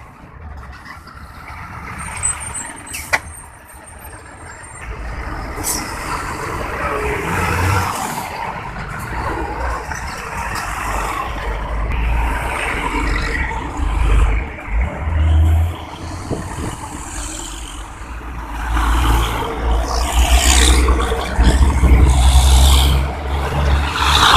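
Heavy trucks passing through a busy road junction, their engines making a deep rumble that grows louder through the second half. A brief high squeal and a single sharp click come a few seconds in.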